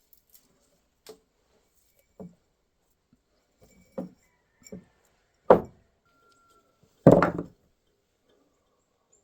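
Scattered knocks and clunks of objects being handled and set down on a hard surface, with a sharper knock about five seconds in and a short rattling clatter a couple of seconds later, the loudest part.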